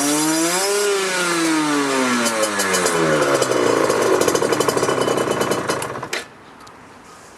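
Yamaha TZR50R's 50cc two-stroke single-cylinder engine revved once, its pitch rising for about a second and then falling back, settling into a rough, uneven idle, then switched off about six seconds in.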